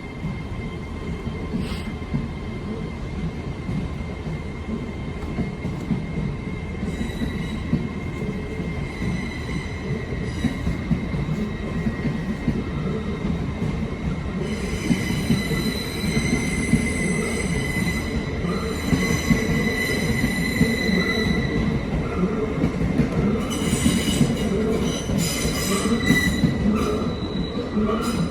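A train moving through the station, its wheels squealing on the rails in long high-pitched tones over a steady low rumble. The squeal grows stronger from about halfway through.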